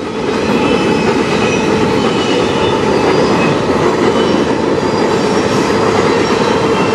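Freight train's covered hopper cars rolling past close by: a loud, steady rumble of steel wheels on rail, with faint high squeals from the wheels coming and going.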